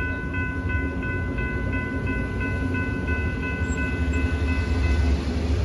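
Railroad crossing warning bell ringing in quick, even pulses, about three a second, over the low rumble of a Lynx light rail train. The bell cuts off about five seconds in.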